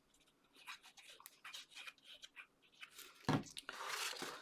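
Sheets of card being handled and rustled, with small paper clicks and a louder knock against the table about three seconds in, followed by a short rustle.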